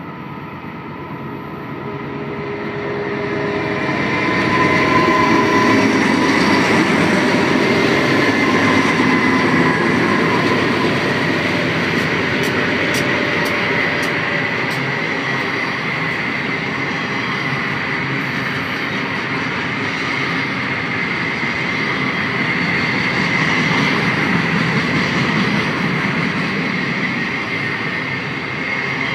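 Double-stack intermodal freight train passing. It grows louder over the first few seconds, then holds as a steady wheel-on-rail noise with a thin, steady high squeal.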